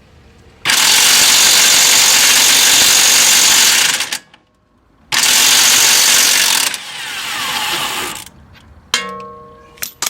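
Impact wrench hammering in two long bursts, about three seconds and then about a second and a half, breaking loose a tight 22 mm nut on one of the bolts holding the bottom of the strut. A sharp metallic clank with brief ringing comes near the end.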